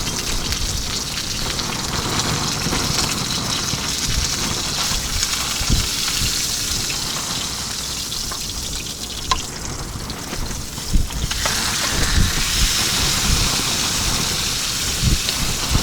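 Salmon fillet frying in a pan, a steady sizzle that fades for a few seconds near the middle and comes back, with scattered low thumps from wind buffeting.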